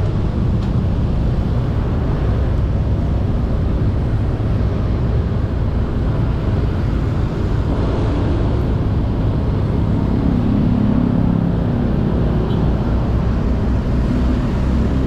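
A motorbike riding along a road: wind rushing over the microphone and the bike's engine running steadily beneath it, with the engine hum coming through a little more at about ten seconds in.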